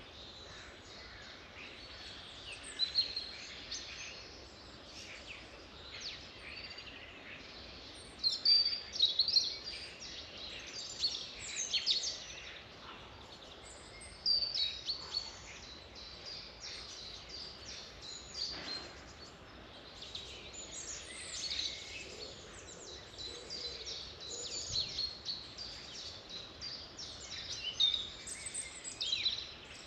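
Several songbirds singing and chirping at once, a dense chorus of short, high trills and whistles over a steady soft hiss.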